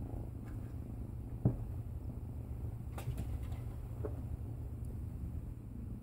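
Kittens at play: a few light taps and thumps, the sharpest about a second and a half in, over a steady low hum.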